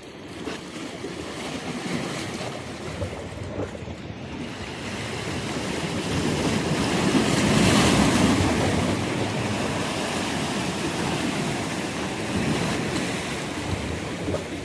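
Sea waves washing in and breaking on the shore, the rush of water swelling to its loudest about halfway through and then slowly fading as the wave runs out.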